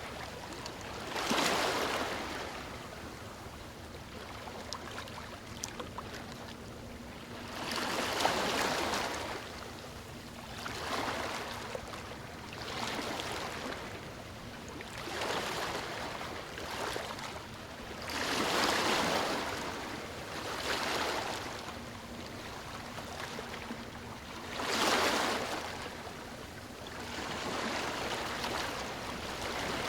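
Sea waves breaking and washing up the beach, a rushing surge every few seconds that swells and fades, the biggest ones about 8, 19 and 25 seconds in.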